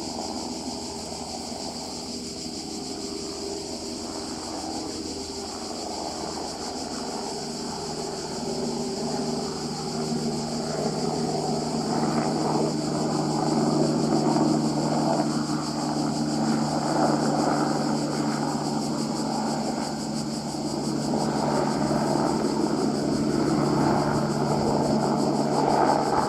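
Airbus AS350 firefighting helicopter flying, its turbine and rotor sound growing louder from about a third of the way in and staying strong as it comes closer.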